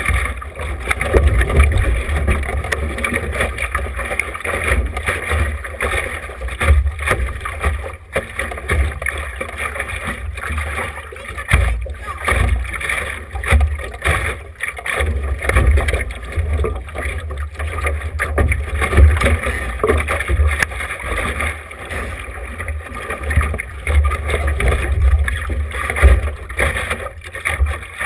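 Wind buffeting a GoPro's microphone while under sail on a small sailboat, with a steady rush of water and boat noise underneath; the low rumble comes and goes in gusts.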